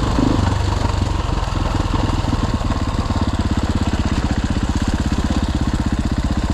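Dirt bike engine idling with an even, steady pulsing beat.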